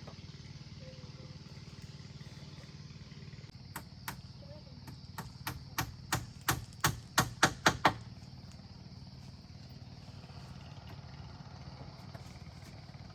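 A run of about a dozen sharp strikes, like a hammer or blade hitting wood, coming faster and louder over about four seconds, then stopping. A steady low hum runs underneath.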